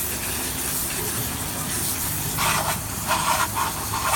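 Water spray hissing steadily against a refrigerator being washed down; from about halfway a louder, rougher rushing comes and goes in several bursts.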